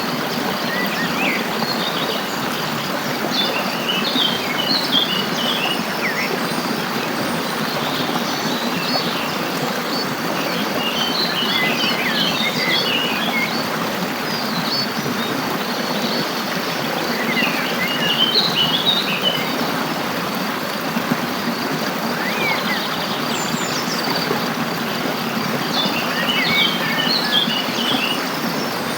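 A songbird sings short bursts of quick chirping notes, a phrase about every seven or eight seconds, over a steady rushing background noise. A faint, continuous high insect tone runs underneath.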